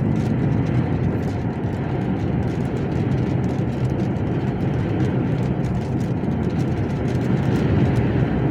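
Steady engine and road noise heard inside a lorry's cab while driving at a constant speed.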